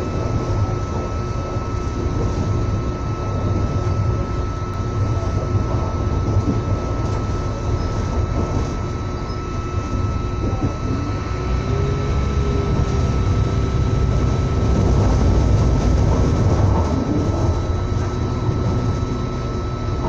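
Moving train heard from inside the carriage: a steady low rumble of the wheels on the track, with a thin steady whine over it. It swells slightly louder about three quarters of the way through.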